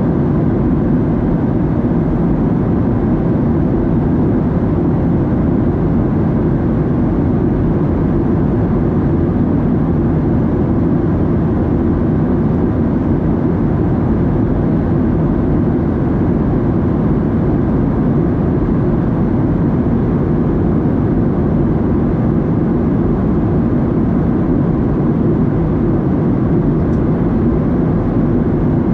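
Steady cabin noise of a Boeing 737-700 in flight: the deep, even rumble of its CFM56 turbofan engines and the airflow over the fuselage, unchanging throughout.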